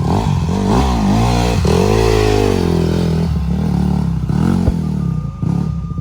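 Dirt bike engine revving close by, its pitch rising and falling as the throttle opens and closes, then dropping away near the end.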